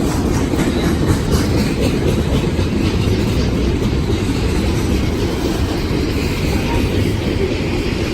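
Freight train rolling past: a steady heavy rumble of the cars with wheels clicking over the rail joints.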